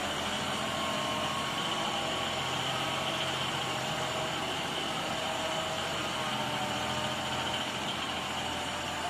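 Big truck-mounted generator running steadily: a constant engine hum with a steady high whine over it.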